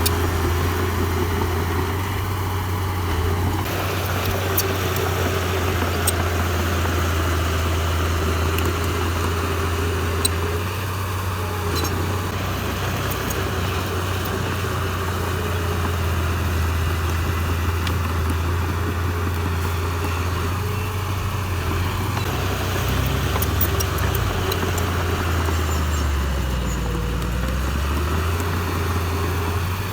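Heavy diesel engine of an earthmoving machine running steadily. Its low note sags briefly near the end and then recovers.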